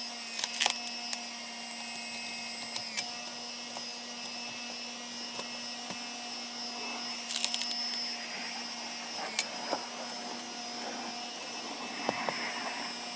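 Engine-driven hydraulic log splitter running steadily, a constant mechanical drone with fixed tones, with a few sharp clicks and cracks of wood and metal scattered through.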